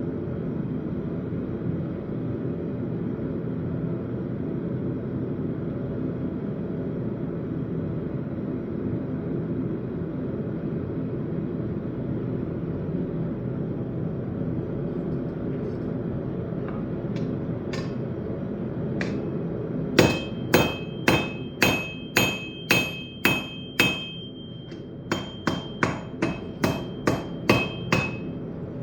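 Hammer blows on an anvil, forging a railroad spike: a few light taps, then two runs of ringing strikes about two to three a second with a short pause between them. A steady low rumble runs underneath.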